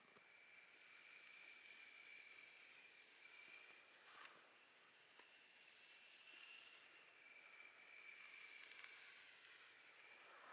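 Faint, soft brushing and rustling of hands or a brush against hair, skin or fabric during a massage, over a steady low hiss, with a couple of slightly louder scrapes about four and five seconds in.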